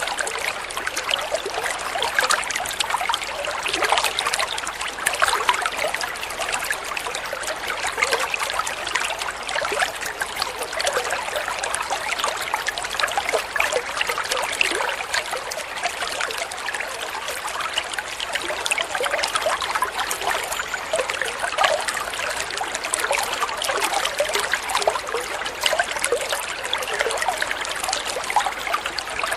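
Flowing water trickling steadily, with a dense, constant patter of small splashes and no pauses.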